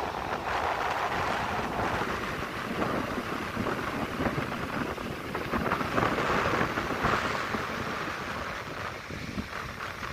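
Rushing, surging sea water, swelling loudest about six to seven seconds in, with wind buffeting the microphone.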